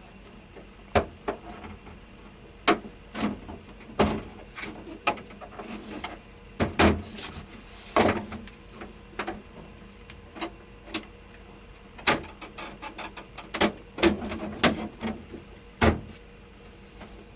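Irregular sharp clicks and knocks, some single and some in quick clusters, as the casing of a portable air conditioner is handled during a repair.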